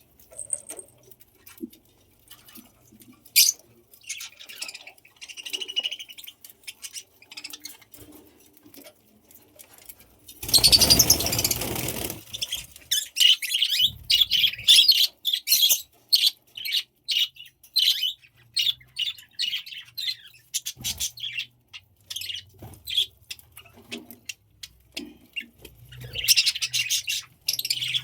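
A small flock of budgies chirping and chattering in quick, high, broken calls. A loud rustling burst lasts under two seconds, about ten seconds in.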